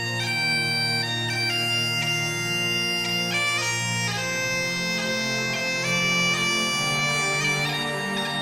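Bagpipe music: a melody moving in steps from note to note over steady low drones.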